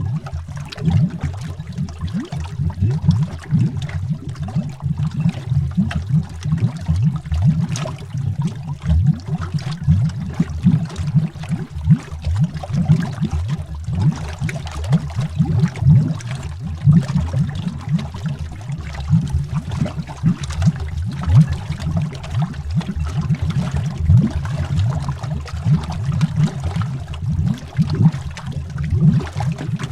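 Continuous underwater bubbling: a dense stream of deep, low bubble pops and gurgles over a faint steady hiss, steady throughout.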